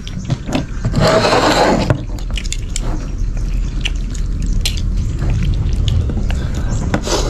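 A person eating up close: a wet slurp about a second in, then small clicks and mouth noises.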